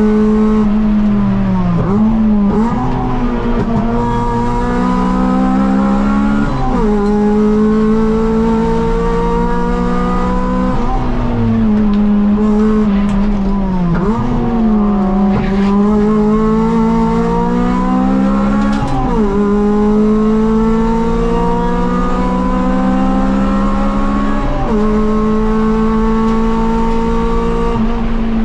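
Honda B18C 1.8-litre DOHC VTEC four-cylinder engine, heard from inside the EG Civic's cabin while being driven hard on a race track. Its pitch climbs steadily under load and drops sharply at each shift or lift, several times over.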